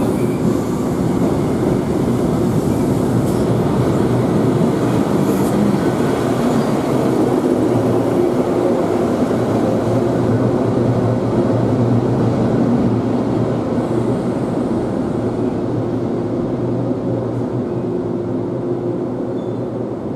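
Trains running through a station: a passenger train pulls away, then a container freight train rumbles by with its wagons. A steady low hum runs under the noise throughout, and it eases off slightly near the end.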